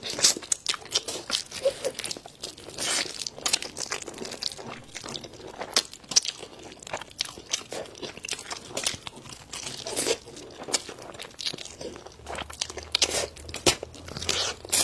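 A person eating crunchy food close to the microphone: irregular crisp crunches from biting and chewing.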